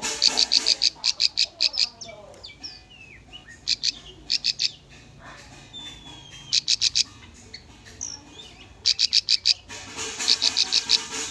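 Bar-winged prinia (ciblek) song: repeated bursts of rapid, sharp, high chip notes, each burst lasting about a second, with softer chirps and short whistled slurs between the bursts.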